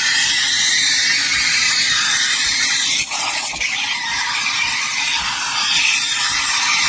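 Espresso machine steam wand hissing steadily, its sound shifting briefly about three seconds in.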